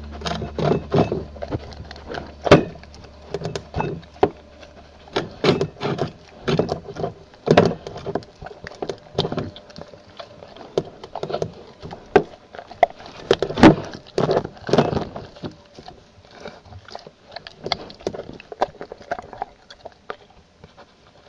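Irregular knocks and clatters, some sharp and loud, at no steady rhythm.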